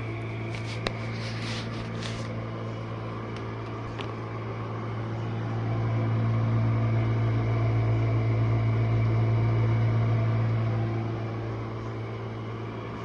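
Jenn-Air dishwasher running early in its cycle: a steady low hum that swells louder for several seconds in the middle, then settles back, loud for a dishwasher. A sharp click about a second in.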